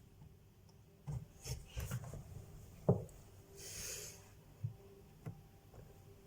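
Scattered light knocks and rubbing, with a sharp click about three seconds in and a short hiss just after.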